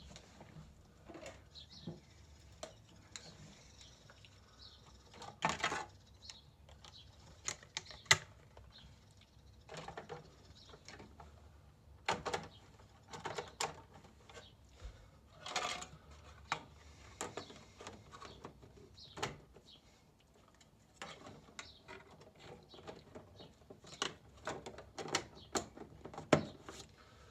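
Irregular clicks, knocks and light rattles of parts and tools being handled while a stairlift is reassembled, with no motor running. The sharpest knocks come about 8 seconds in and near the end.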